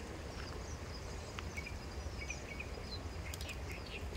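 Small birds chirping, short high calls scattered throughout, over a steady low background rumble.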